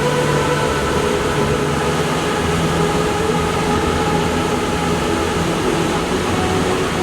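Steady roar of the Krimml Waterfalls' rushing water, with faint sustained tones that drift slowly lower in pitch above it.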